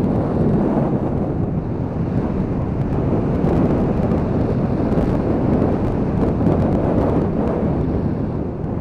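Gusty gale-force wind buffeting the microphone while riding, with a 2013 Honda CB500X's parallel-twin engine running underneath. The noise is steady and dense and sits mostly low.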